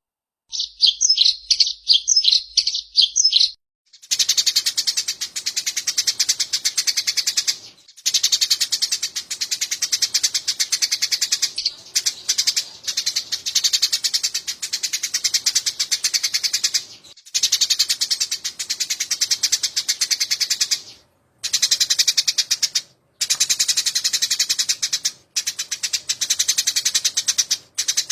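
Eurasian tree sparrows chattering in a fight, a dense run of very fast, high-pitched chirps. It breaks off abruptly several times and starts again. It opens with a short bout of repeated notes.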